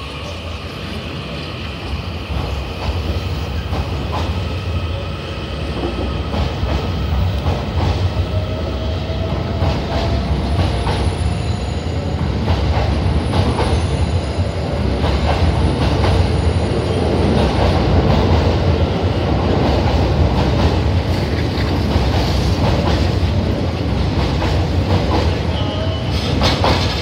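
The E001-series TRAIN SUITE Shiki-shima cruise train runs slowly out along the platform. Its cars give a steady low rumble and hum, with wheels clicking over rail joints and some squealing. The sound grows louder over the first several seconds as the cars pass close by.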